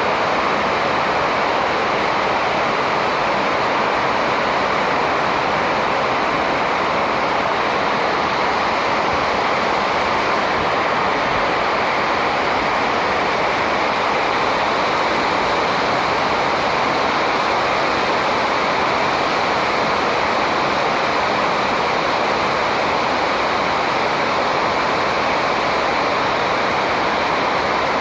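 Steady rushing noise of flowing water, even and unchanging throughout, with no distinct bird calls standing out.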